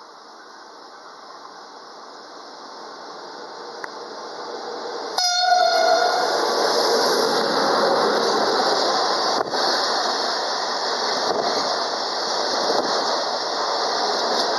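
Freight train approaching and then passing close by, its rumble growing steadily. About five seconds in, the locomotive gives a short horn blast of about a second as it draws level. After that comes the steady loud rolling of container wagons, with a few sharp wheel knocks.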